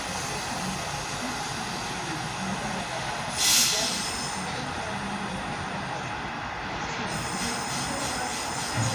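Class 323 electric multiple unit pulling out of the station, a steady rumble of the train on the rails with a short sharp hiss about three and a half seconds in.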